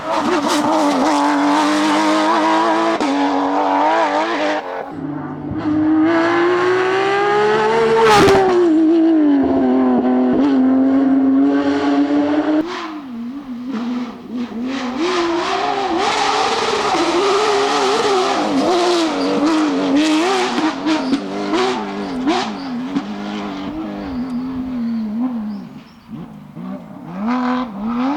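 Porsche GT3 rally car's flat-six engine driven hard. The revs climb to a peak about eight seconds in and drop back, then from about halfway rise and fall quickly as the throttle is blipped and lifted through a twisty section.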